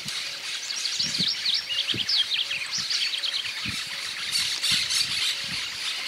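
Birds calling: a quick run of high chirps and squeaky notes through the first half, then scattered calls over a steady high hiss.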